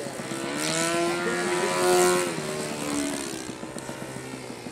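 RC model airplane's engine and propeller rising in pitch and growing louder to a peak about two seconds in, then dropping in pitch and fading.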